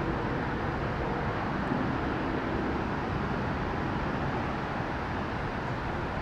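Distant jet airliner engine noise, a steady low rumble that eases off slightly.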